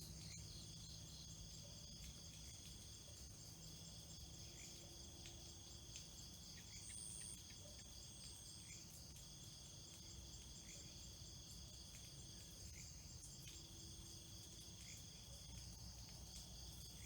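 Faint chorus of insects trilling steadily: several overlapping high-pitched tones, with a short higher chirp now and then.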